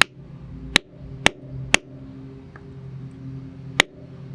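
Five sharp knocks of a small geode being struck hard to crack it open: one near the start, three in quick succession about a second in, and one more near the end.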